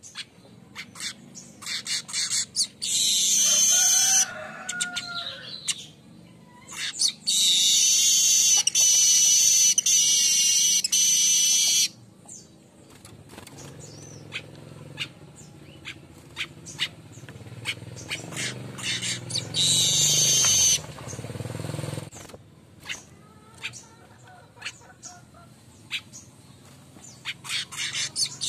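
Streaked weaver singing: scattered short clicking chips between long, loud, buzzing song phrases of several seconds each, three of them, with a fourth starting at the very end.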